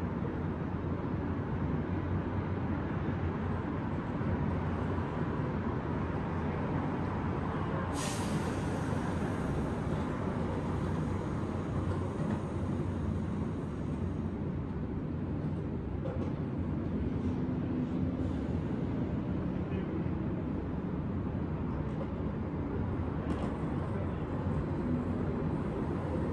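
Steady city traffic noise heard from high above the street, a constant rumble. About a third of the way in, a sudden sharp hiss starts and fades away over a few seconds.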